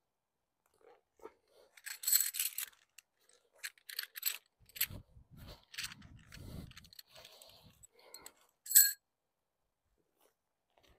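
Metal tent pegs clinking and jangling in a few short bursts, with rustling and handling noise as a nylon fly sheet is pegged down; the sharpest, ringing clink comes near the end.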